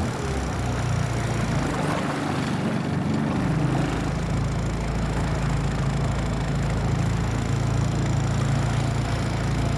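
Honda 20 hp four-stroke outboard motor running on a 14-foot aluminum boat, with hull and water noise. The engine note wavers at first, then settles into an even, steady run with a deeper rumble about three and a half seconds in.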